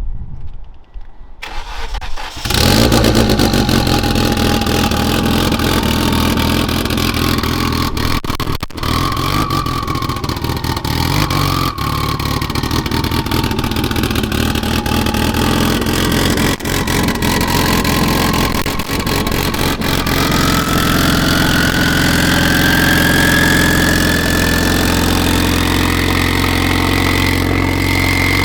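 Turbocharged car engine with a Cobb stage 3 intake and tune cranks and starts about two seconds in, then runs steadily. Over the second half a high whine slowly rises in pitch.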